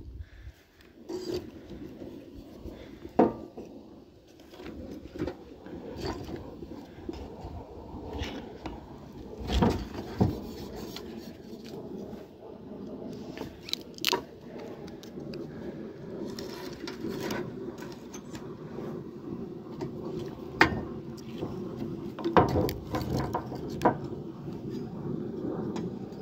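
Scattered knocks and scrapes of things being handled, over a steady low hum.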